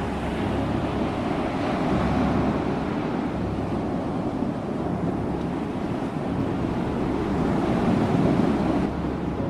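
Ocean waves breaking and washing on a shore in a steady rush, swelling a little about two seconds in and again near the end.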